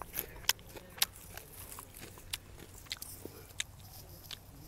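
A person chewing raw grassy weed leaves, with crisp crunches every second or so at an irregular pace.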